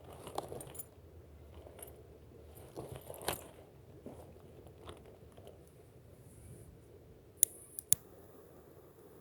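Close, small handling noises: scattered crinkles and light clicks, a louder crackle about three seconds in, and two sharp clicks half a second apart near the end.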